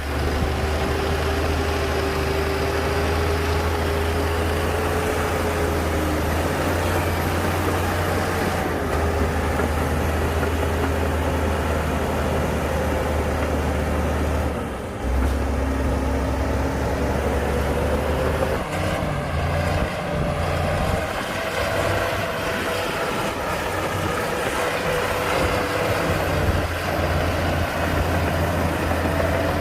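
Heavy diesel earthmoving machinery running steadily, a deep engine drone whose pitch drifts up and down as it works.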